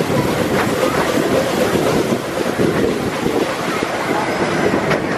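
Miniature park railway train running, heard from its open passenger carriage: a steady rattle and clatter of the wheels on the track, with a few sharper clicks.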